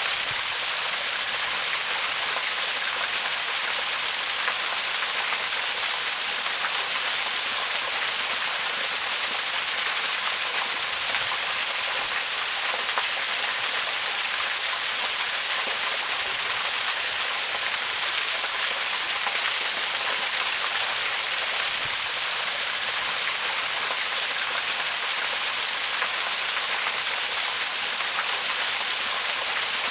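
Waterfall, its falling water making a steady, even rush weighted toward the high end with little low rumble.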